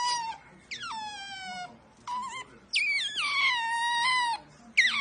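Kitten meowing over and over: four or five high, drawn-out mews, each starting high and falling to a lower held note, the longest about a second and a half long in the middle.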